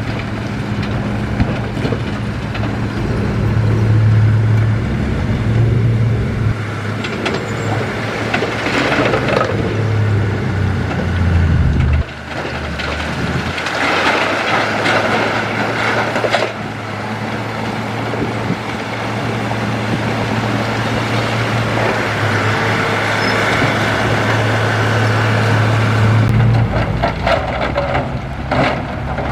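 Heavy diesel earthmoving machinery running steadily, with several louder stretches of noise. The sound changes abruptly about twelve seconds in.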